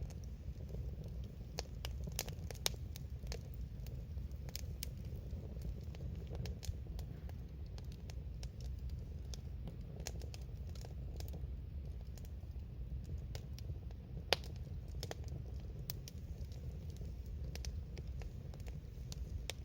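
Campfire crackling: irregular sharp pops and snaps over a steady low rumble, with a louder pop about 14 seconds in.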